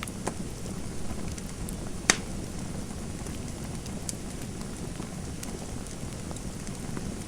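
Fireplace fire crackling: a steady low rumble with scattered sharp pops, the loudest about two seconds in.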